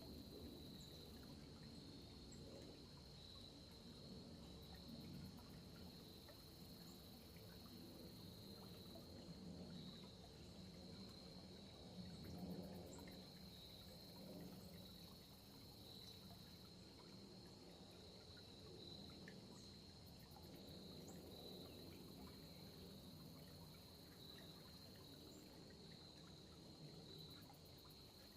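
Faint, steady high trilling of an insect chorus, crickets, over a low, uneven rumble of background noise.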